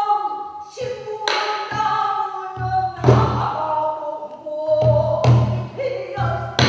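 Pansori singing: one voice with long, sliding, bending notes, accompanied by a buk barrel drum struck a few times.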